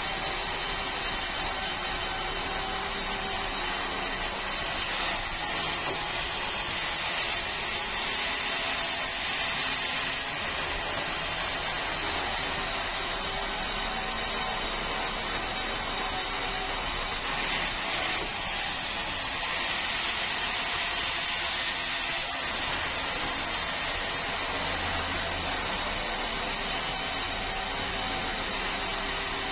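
Sawmill saw running steadily.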